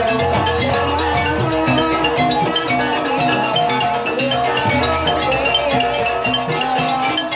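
Banyuwangi gamelan accompaniment for a jaranan dance: bright struck metal keys play quick, busy note patterns over percussion and a sustained low tone.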